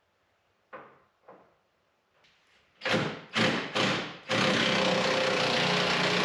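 Two light knocks, then three short, loud, noisy bursts, after which a motor-driven machine starts up about four seconds in and runs steadily with a constant hum.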